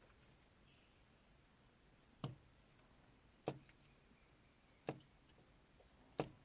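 Superb fairy wren pecking at the car: four sharp taps, spaced a little over a second apart, over near silence.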